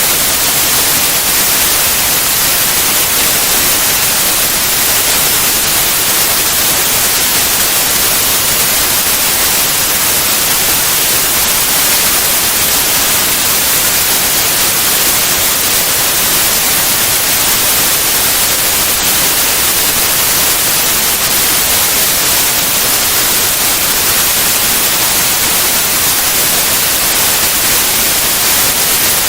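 Steady, loud white noise: an even hiss spread across all pitches, strongest in the highs, with no change or events.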